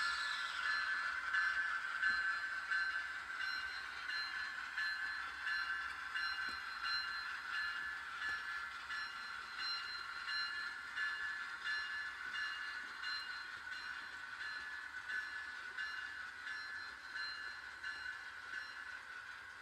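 Train rolling along the tracks, a steady metallic rail sound that slowly fades as it moves away.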